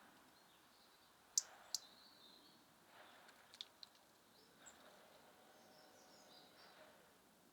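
Small songbirds giving a few short, sharp, high call notes over near silence: two about a second and a half in, a quick cluster a couple of seconds later, and faint thin calls near the end.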